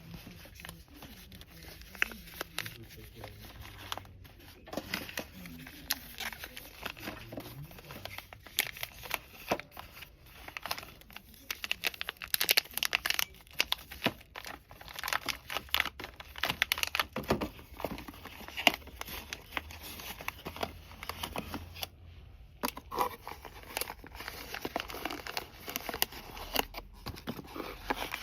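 Fast, dense crinkling and rustling of product packaging handled close to the microphone, growing busier and louder partway through, with a brief pause near the end.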